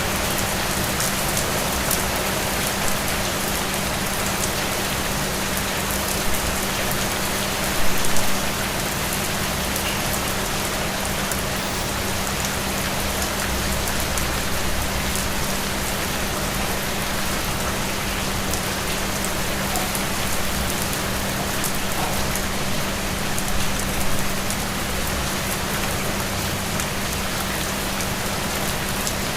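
Steady rain falling, an even, dense patter with a constant low hum beneath it. There are a few brief louder moments, the loudest about eight seconds in.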